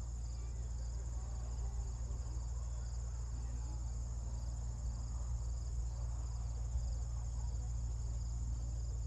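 Steady high-pitched chorus of insects, crickets by its character, pulsing slightly, over a constant low rumble, with faint distant voices.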